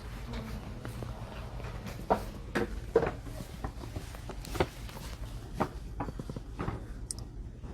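Indoor bookstore ambience: a steady low hum with scattered, irregular footsteps and light knocks and clicks.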